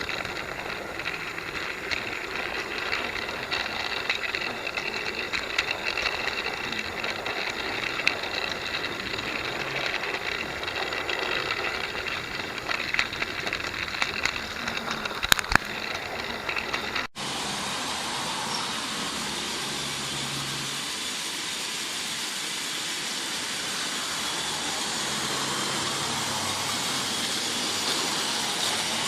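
Battery-powered Trackmaster toy locomotive running on plastic track: a steady motor whir with scattered clicks from the wheels and track. About seventeen seconds in, the sound cuts abruptly to a smoother, steady hiss-like running noise.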